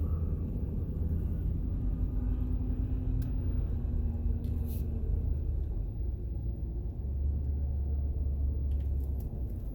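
Steady low rumble of a vehicle driving slowly, heard from inside the cab, with a couple of faint clicks about halfway through.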